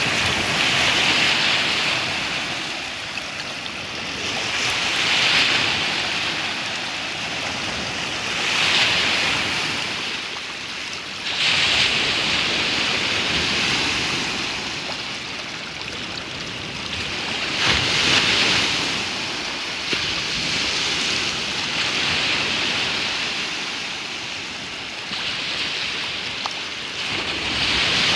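Waves on Lake Michigan washing onto the shore, the rush of water swelling and falling every three to four seconds.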